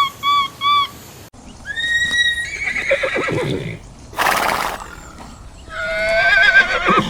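A horse whinnying twice, long calls that waver in pitch, with a short breathy burst between them. Before that, a run of short repeated chirps cuts off about a second in.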